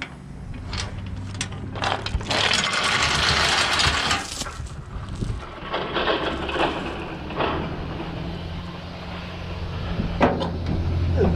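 Truck engine idling steadily, with a loud hiss lasting about two seconds starting about two seconds in, and scattered clicks and knocks.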